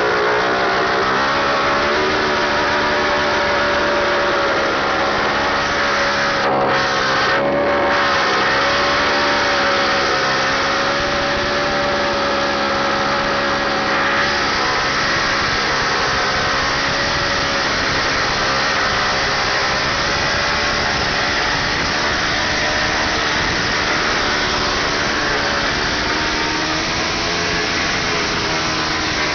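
Motorcycle engine held at high revs during a burnout, its pitch wavering a little as the throttle is worked, over a constant loud hiss. The hiss drops out briefly twice, about six and seven seconds in.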